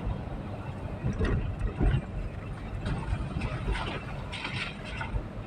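Low rumble of a vehicle on the move, with irregular clicks and rattles and a few short hissy bursts.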